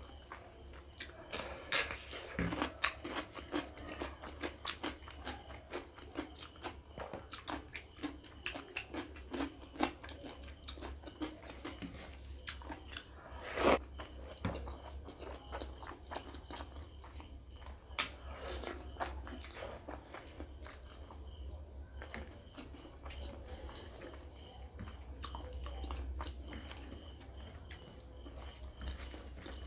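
Close-miked eating: a person biting and chewing pork rib curry, rice and raw cucumber, with many short crunchy clicks and wet chewing. One sharp, louder crunch comes about fourteen seconds in.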